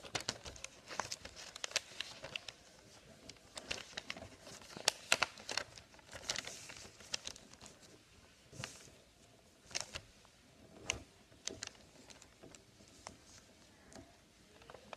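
A sheet of paper being folded and creased by hand, with irregular short crinkles and rustles.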